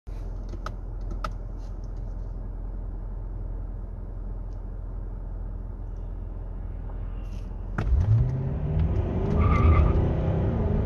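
Cabin sound of a Mercedes-Benz E420 CDI's 4.0-litre twin-turbo V8 diesel idling steadily, with a few light clicks early on. About eight seconds in the engine note rises sharply and grows louder as the car launches at full throttle from a standstill.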